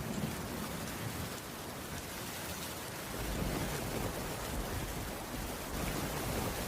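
Heavy rain falling steadily, with a low rumble underneath that fades about a second in and swells again from about three seconds in.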